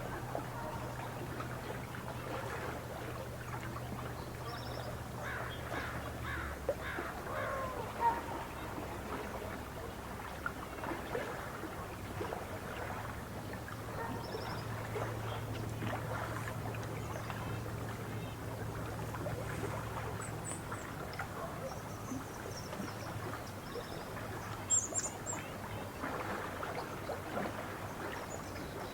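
Lakeside ambience: water lapping with birds calling here and there, including short high chirps about 25 seconds in. A low steady hum sounds under it for the first six seconds and again midway.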